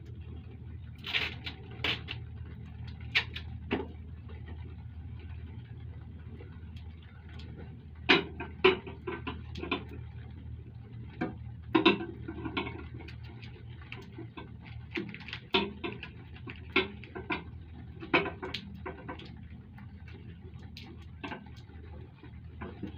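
Irregular clicks and light knocks of parts and tools being handled, over a steady low hum.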